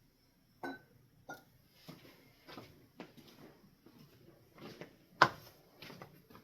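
Scattered small clicks and knocks of hands working on a ceiling fan's light kit, with one sharper knock about five seconds in.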